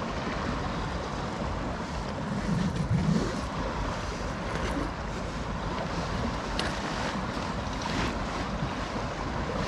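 Waves breaking on a rocky seashore in stormy weather, with wind buffeting the microphone, loudest in a gust about two and a half seconds in.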